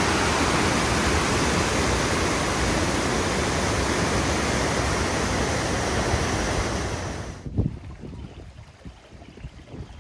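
Waterfall's water rushing in a loud, steady roar of white noise. It cuts off abruptly about seven seconds in, leaving a much quieter background with a few low bumps.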